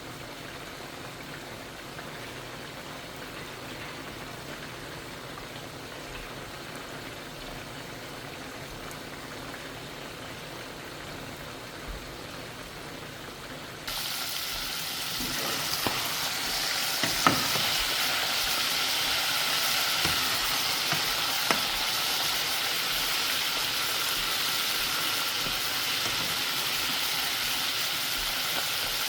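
Chicken frying in hot oil. A quiet steady sizzle for about the first half, then the sizzling turns suddenly much louder and crackling, with a few sharp pops and clicks.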